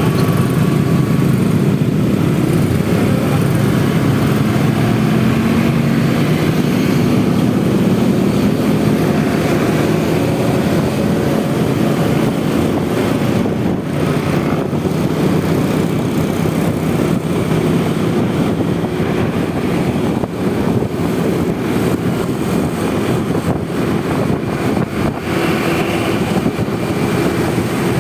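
Honda Vario 125 scooter's single-cylinder engine running while riding, its pitch rising a little in the first few seconds as it speeds up, under a steady wash of road noise.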